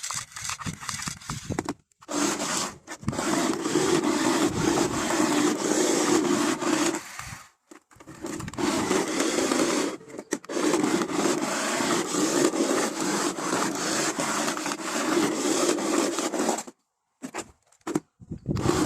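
Toy car running on its small electric motor, its wheels rolling across a hard surface in long runs with a steady whirr, stopping briefly a few times.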